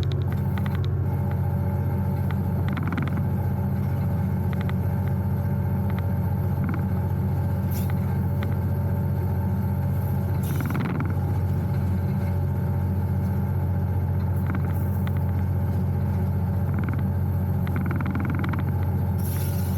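EMD diesel locomotive engine running steadily, a loud low drone heard from inside the cab, with a few short rushing noises now and then.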